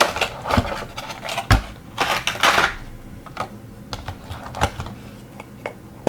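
Small hard plastic parts of a nail gel kit clicking and tapping as they are handled, with a brief rustle of packaging about two seconds in; the clicks thin out in the second half.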